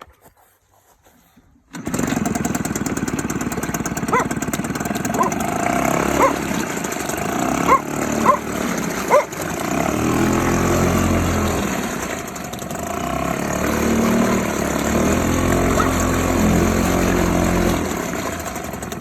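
Parsun 2.6 outboard boat motor starting up about two seconds in, then running steadily. Several short, sharp calls sound over the engine a few seconds after it starts.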